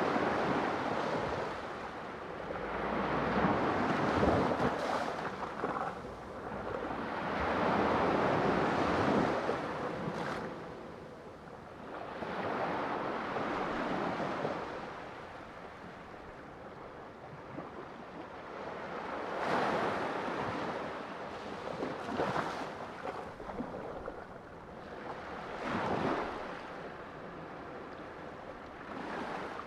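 Sea waves breaking and washing up, a rushing surge that swells and fades every few seconds, with a few shorter, sharper surges in the second half.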